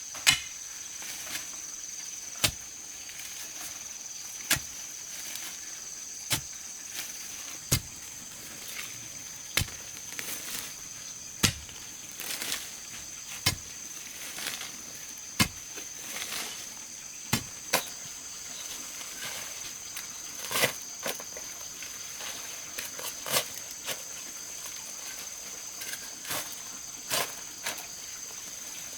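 Sharp strikes of a tool on wood, about one every two seconds, over a steady high-pitched insect drone.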